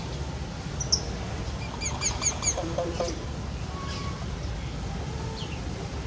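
Bird calls: a single short chirp about a second in, then a quick run of four repeated calls around two seconds in, followed by a few lower notes and faint chirps later, over a steady low rumble.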